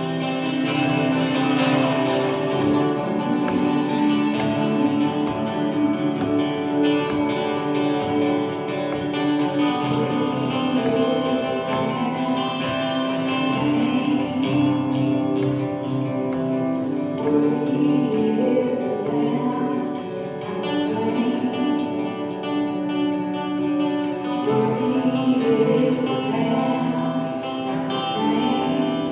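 Worship music: singing over guitar accompaniment.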